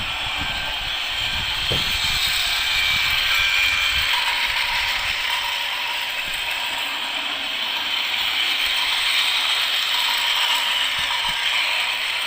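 Motorised toy train running along its track, a steady whirring rattle from its small electric motor and gears.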